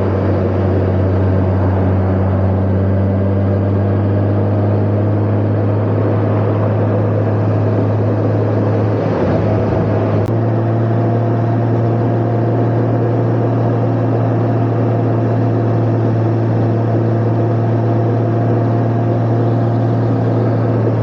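Honda Gold Wing motorcycle engine running steadily while riding. Its note shifts slightly about nine to ten seconds in, then holds steady.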